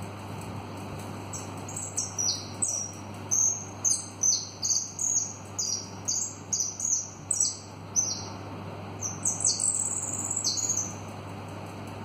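A bird singing a quick run of high chirps, many notes stepping down in pitch, from about a second in until near the end, over a steady low hum.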